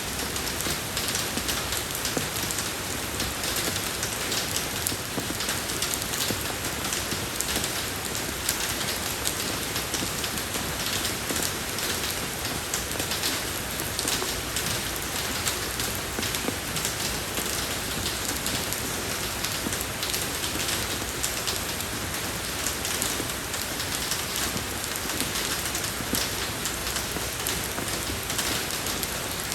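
Steady rain falling on a road surface, an even hiss dotted with many small drop ticks.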